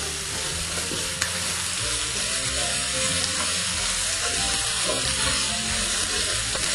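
Bacon and onion sizzling steadily as they fry in a pan, with one sharp click about a second in.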